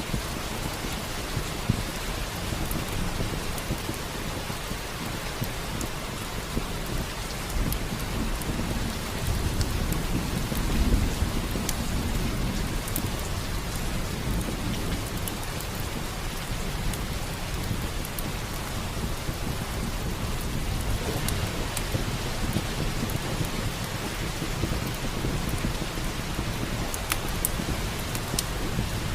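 Steady heavy rain with a low roll of thunder that swells about ten seconds in, and scattered sharp clicks throughout.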